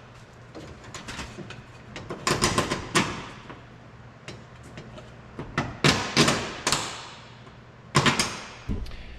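Knocks and clanks from tools and metal being handled in short clusters, about two, six and eight seconds in, each with a brief ring.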